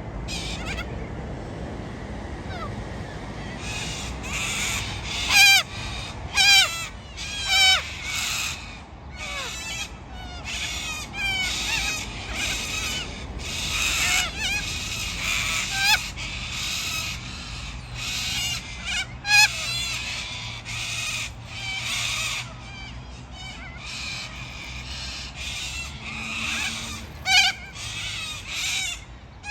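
A flock of parrots squawking and screeching, harsh calls following one another without a break, a few sharp, louder squawks standing out.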